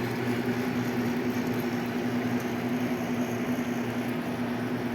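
WMF espresso machine's pump running during its automatic brew-group cleaning cycle, pushing hot water through the brewing group: a steady, even hum.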